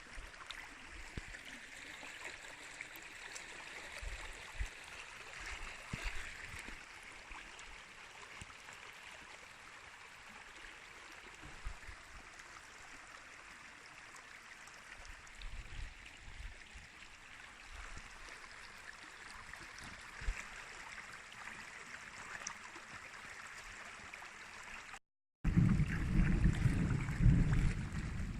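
Rainstorm: a steady hiss of rain and running water, with occasional low thumps of wind on the microphone. Near the end, after a brief cut, loud wind buffets the microphone.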